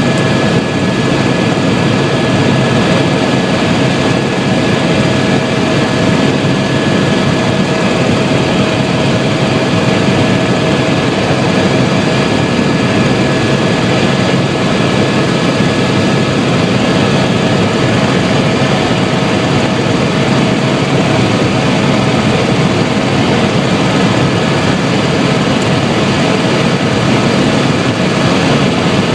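Helicopter in flight: steady, loud rotor and turbine engine noise with a constant high whine running through it.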